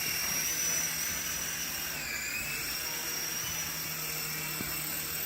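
Sky Rover Vigilante toy RC helicopter in flight: the small electric motors and rotors give a steady high whine. The pitch dips briefly about two seconds in, then the whine cuts off near the end as the helicopter lands.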